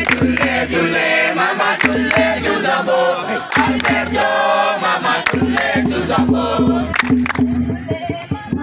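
A group of voices singing together, with sharp percussion strikes through the song.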